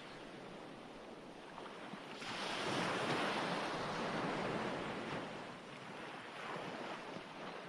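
Ocean waves breaking on a shore: one wave swells up about two seconds in, washes and recedes over a few seconds, and a smaller surge follows near the end.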